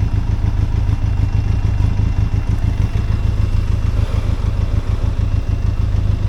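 Benelli TRK 502X motorcycle's parallel-twin engine running steadily at low revs.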